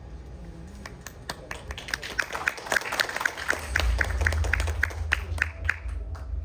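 Audience applauding, the clapping building up over the first few seconds, with deep bass from a music track coming in about halfway through.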